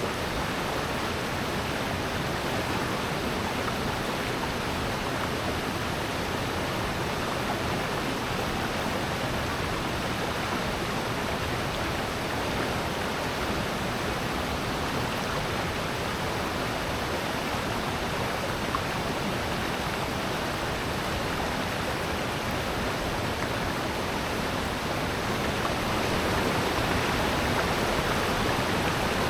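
Rushing water of a valley stream and waterfall, a steady even roar, growing slightly louder near the end.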